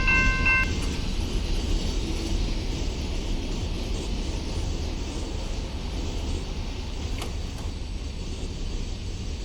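A bell dinging about twice a second stops under a second in. Under it, the low rumble of a freight train's rolling cars goes on and slowly fades as the train moves away.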